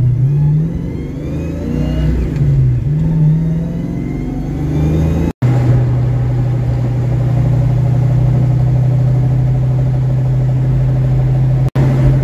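1982 Ford Mustang GT's V8 engine heard from inside the cabin, accelerating through the gears for about five seconds, its pitch rising and dropping back at each shift, then holding a steady drone at cruise.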